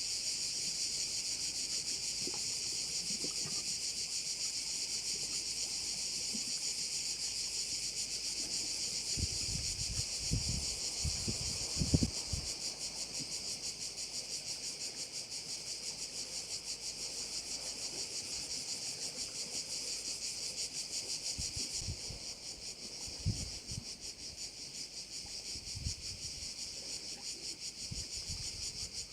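Dense, steady chorus of crickets chirring in a fast, high pulsing drone. A few low rumbles break in, the loudest about twelve seconds in.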